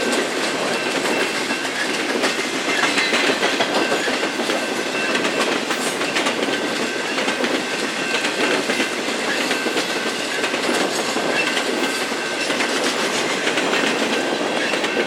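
A train rolling past, with wheels clicking steadily over rail joints and a faint, steady high-pitched tone above the rumble.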